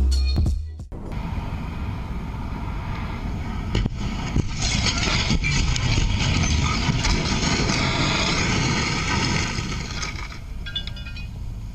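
Driving noise of a moving vehicle, a steady rushing of road and wind that swells about four seconds in and eases off near the end. Music cuts out about a second in.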